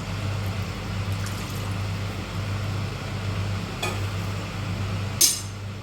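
A pot of curry being stirred, with a spoon scraping and clinking against the metal pot; one sharp, loud clink near the end. A steady low hum runs underneath.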